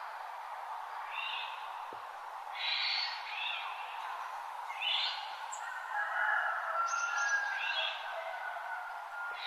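Dawn chorus of wild birds: short chirps repeat every second or so, with a few longer whistled notes, over a steady background hiss.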